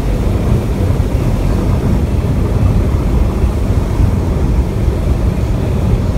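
Loud, steady low rumble of a vehicle driving, road and engine noise heard from inside the cabin.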